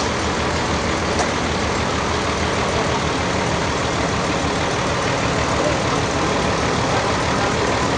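Sawmill machinery running steadily with an engine-like drone and a faint click about a second in.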